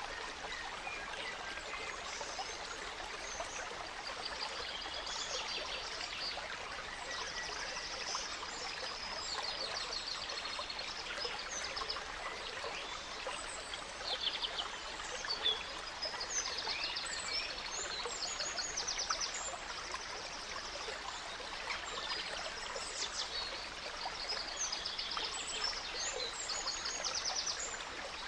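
A gentle stream trickling and burbling steadily, with several songbirds singing over it in quick trills and chirps.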